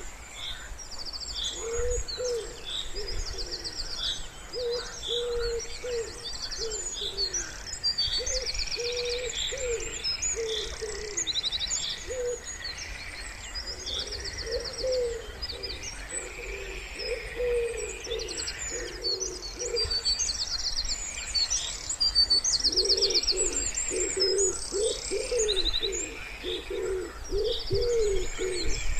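Wood pigeon cooing in repeated low phrases, with small songbirds chirping and trilling high above it throughout.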